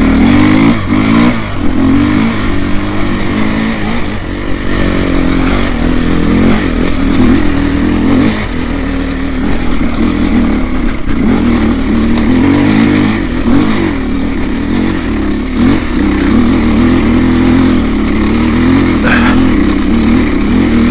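Dirt bike engine running hard under throttle, its pitch rising and falling again and again as the rider works the throttle.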